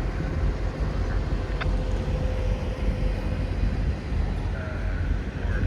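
A train passing close by with a steady low rumble, and a faint thin squeal starting about four and a half seconds in.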